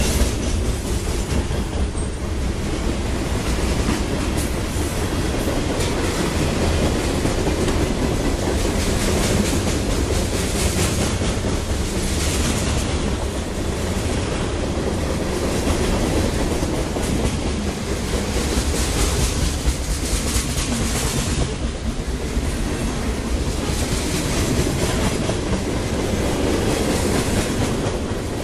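Freight train cars passing close by at speed: a steady low rumble of steel wheels running on the rails as covered hoppers and then open coal hoppers roll past.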